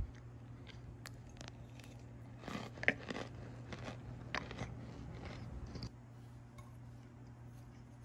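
Oven-baked Argo cornstarch chunks being bitten and chewed: scattered crisp crunches, thickest and loudest from about two and a half seconds in until near six seconds, over a low steady hum.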